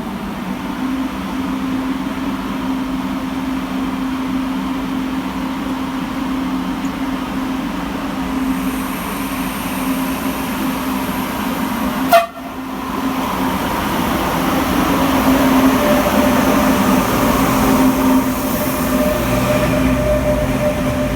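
Train running with a steady hum. A single sharp bang comes about twelve seconds in, after which the train's rumble grows louder.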